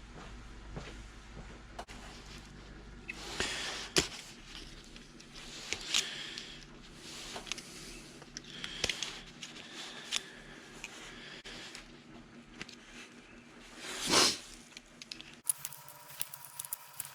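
Hand tools and small metal parts being handled: scattered clicks, knocks and short scrapes, over a low steady hum that stops near the end.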